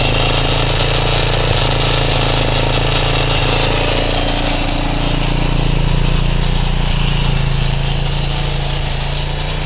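A 230 cc motorcycle engine, freshly swapped into a CTX200 frame with a reworked carburettor, idling steadily. Its speed rises slightly about halfway through, then settles back.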